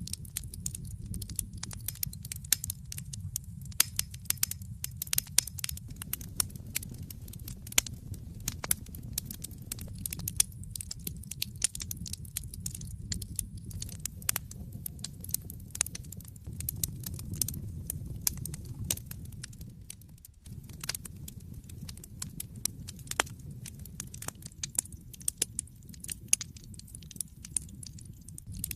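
Wood fire burning in a fireplace: a steady low rumble of the flames with frequent, irregular sharp crackles and pops of the burning logs.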